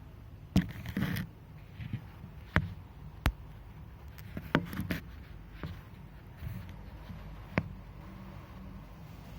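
Daikin air conditioner running with a steady low hum from its fan, broken by a series of sharp clicks and knocks at irregular intervals, some in quick clusters.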